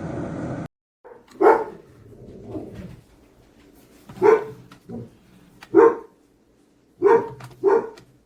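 A steady rushing noise cuts off abruptly under a second in. A dog then barks about five times in short single barks, spaced irregularly, two of them close together near the end.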